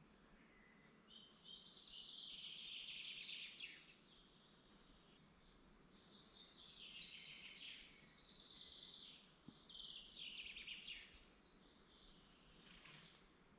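Faint songbird song in woodland: two long phrases of fast, high trills and warbles, the first about a second in and the second from about six seconds, with a few short chirps between, over a faint steady background hiss.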